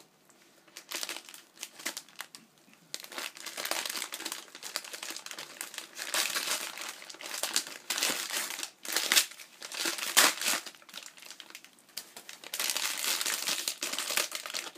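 Packaging crinkling and rustling in irregular handfuls as gift items are unwrapped, with short pauses in between.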